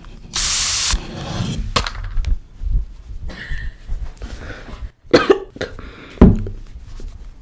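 Close-miked coughing and mouth noises: a loud rough burst of breath in the first second, then several short, sharp coughs and clicks.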